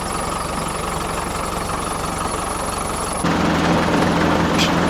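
Land Rover Series III engine idling steadily after two years standing. About three seconds in, the sound abruptly becomes louder and fuller and holds there.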